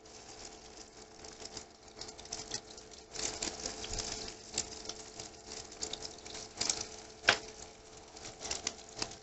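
Egg-dipped chicken and potato cutlets shallow-frying in a little mustard oil in a non-stick pan on low heat: an irregular sizzle of crackles and small pops, busier from about three seconds in, with one sharper pop about seven seconds in. A faint steady hum runs underneath.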